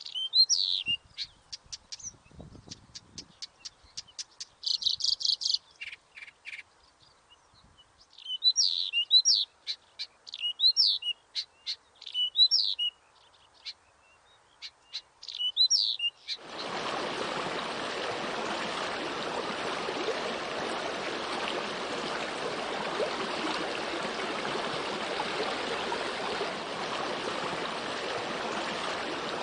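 Small birds chirping, with quick repeated downward-swooping calls and fast trills of clicks. About sixteen seconds in the birdsong cuts off and a steady rush of water takes over.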